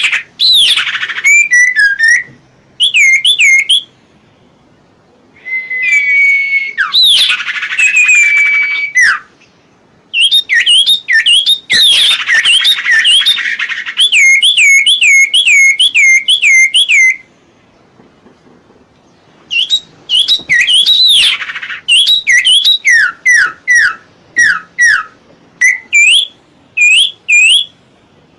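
Common iora (cipoh) singing: phrases of quick, repeated whistled notes that dip and rise, each phrase a second or a few long, with short pauses between them and a few longer drawn whistles partway through.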